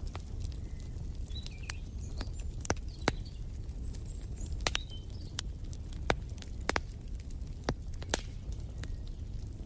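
Wood fire crackling in a fireplace: irregular sharp pops and snaps over a low steady rumble, with faint bird chirps in the background.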